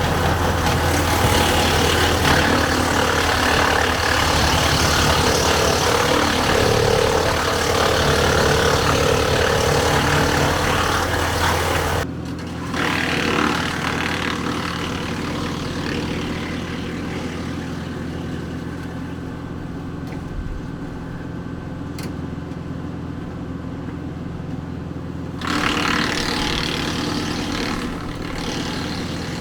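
Woodland Mills WC68 wood chipper running off the PTO of a Kubota L4060 tractor, whose diesel engine hums steadily underneath a loud hiss at all pitches. About twelve seconds in the hiss cuts off suddenly, leaving mostly the engine and chipper running. The hiss comes back about four seconds before the end.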